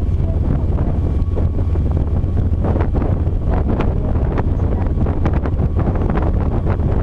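Wind buffeting the microphone: a loud, steady low rumble with crackling gusts.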